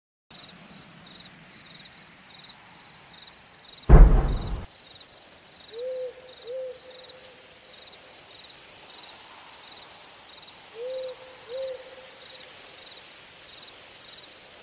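Night woodland ambience: crickets chirping in a steady pulse, a single loud cannon boom about four seconds in, and an owl hooting twice in quick succession, then twice again a few seconds later.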